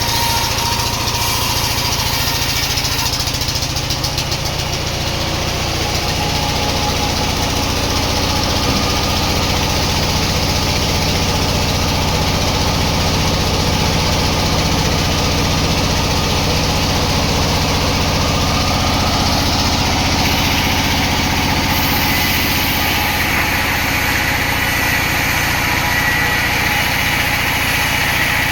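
Sawmill saw and its engine running steadily under load, a low engine hum beneath a dense cutting hiss. The hiss grows brighter about twenty-two seconds in.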